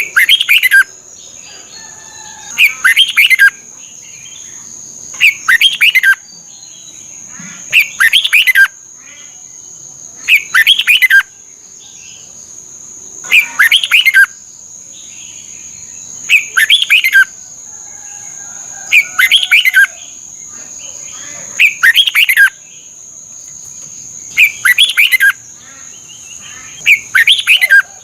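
Red-whiskered bulbul singing its short, whistled phrase over and over, about once every three seconds, with a steady high-pitched whine underneath.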